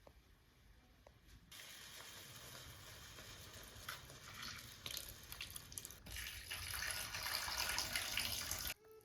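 Water running or being poured in a kitchen, starting about a second and a half in and growing louder, then cut off suddenly near the end.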